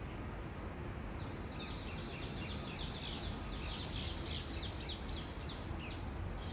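Birdsong: a dense run of quick, descending chirps that starts about a second in and fades near the end, over a steady low background rumble.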